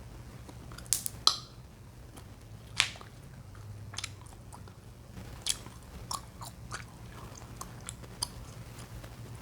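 Chewing gum being chewed and popped close to the mouth: about ten sharp, irregular pops and snaps, the loudest about a second in.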